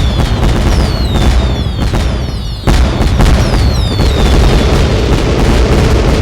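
Fireworks going off in rapid succession, a dense run of bangs and crackles with short falling whistles over them. A heavier burst hits about two and a half seconds in.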